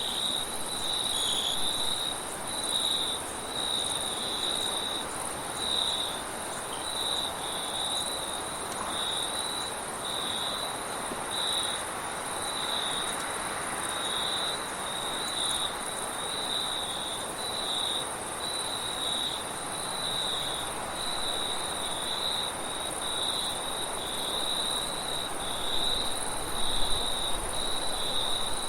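Crickets chirping in a steady rhythm of about one chirp a second, over a continuous high, thin trill of more insects, with a soft rush of wind underneath that gusts a little louder near the end.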